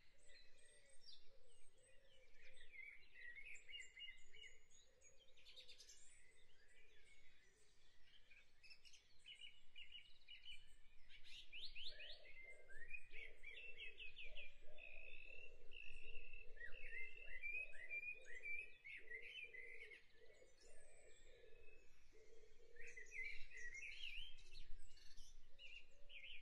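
Faint birds chirping and singing, a steady run of short, quick trilling chirps.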